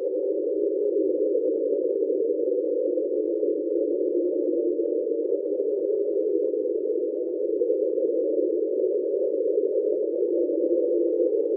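Hydrophone recording of the underwater sound NOAA named "Train": a steady hum made of several close tones, unchanging throughout. NOAA attributes it to a large iceberg run aground.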